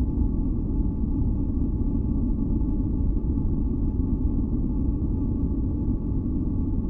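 Steady, deep rumbling masking noise, brown-noise-like, with faint held tones above it.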